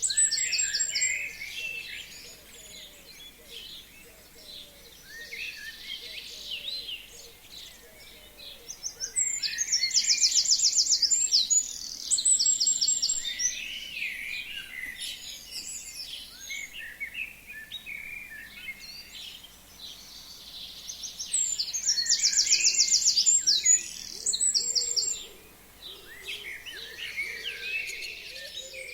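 Forest songbirds singing. One bird's loud, fast, high trill comes three times: at the very start, about ten seconds in, and again about twenty-two seconds in. Softer chirps and calls from other birds fill the gaps.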